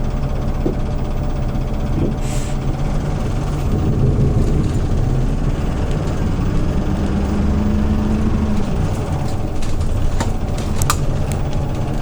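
Hyundai New Super Aero City CNG city bus's engine running under way, heard inside the cabin. Its pitch climbs steadily from about four seconds in as the bus pulls, then drops away near nine seconds. There is a brief hiss about two seconds in and a few sharp clicks near the end.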